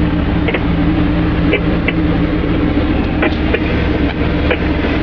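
Vestergaard Beta deicing truck running, heard from inside its upper cab: a steady, even machine hum with a few light clicks scattered through it.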